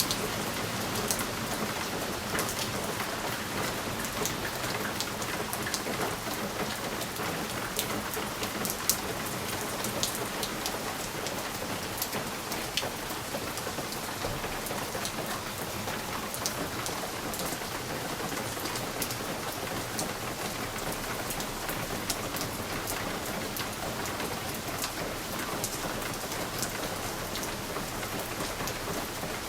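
Steady rain on a window pane: an even hiss dotted with many small, sharp drop ticks.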